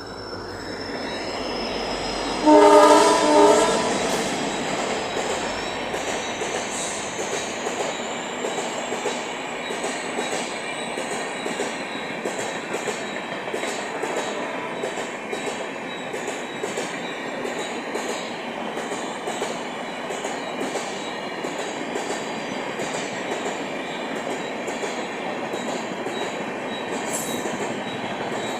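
Twin WDP4-D diesel locomotives on a slow run-through, sounding one short horn blast about two and a half seconds in. The train then rolls past steadily with a continuous rumble and the clickety-clack of wheels over rail joints.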